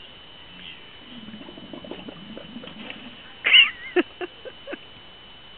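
Camel making low, wet gurgling noises while drooling, then a loud, high, wavering cry about three and a half seconds in, followed by a few short sharp calls.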